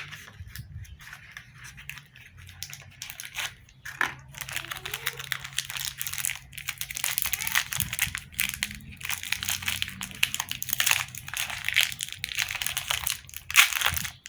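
Packaging crinkling and tearing as it is handled and opened, with many small clicks; the crackling builds from about two seconds in and runs until shortly before the end.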